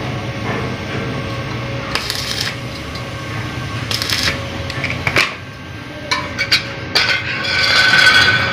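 Workshop clatter: scattered metal clinks and knocks over a steady low hum, with a cluster of sharper knocks about five to seven seconds in.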